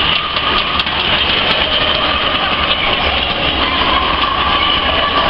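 Steady, loud crowd noise echoing inside a domed stadium, a continuous roar without clear words or a beat.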